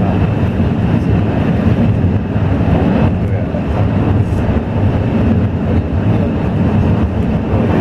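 Steady low rumble of a moving vehicle heard from inside, with an even hiss above it and no pauses.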